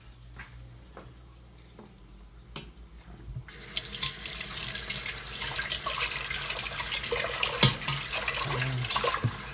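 Water tap turned on about three and a half seconds in, running into a sink, with a few knocks of utensils being handled.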